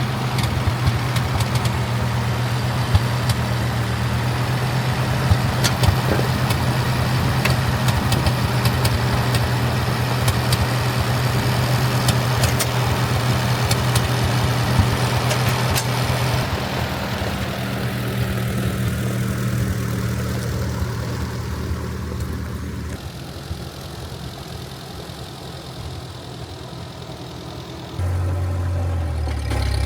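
Tractor engine running steadily with its PTO engaged, a low even hum. It drops in level a little past the middle and comes back louder and deeper near the end.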